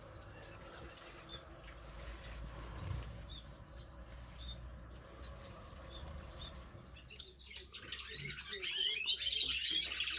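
Captive finches chirping: a few faint, scattered calls, then from about seven seconds in many birds chirping together, louder.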